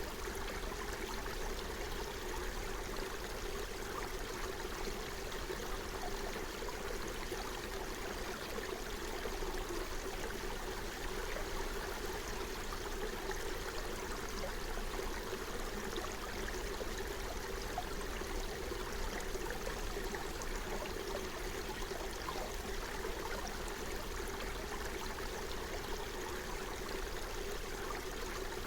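Forest stream flowing over stones, a steady babbling and trickling of running water.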